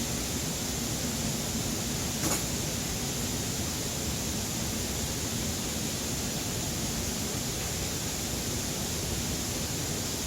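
Steady, even rushing noise with a faint low hum underneath, and one brief click about two seconds in.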